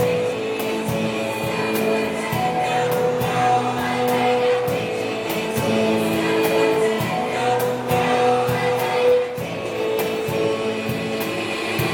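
A choir singing held, sustained notes in several parts, with short percussive clicks recurring through the music.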